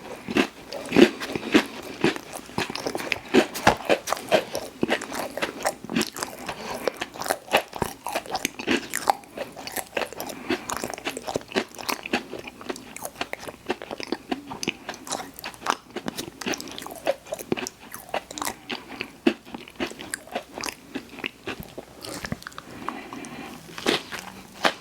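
Close-miked eating: a steady run of crisp crunches and chewing sounds from a mouth eating snacks and candy.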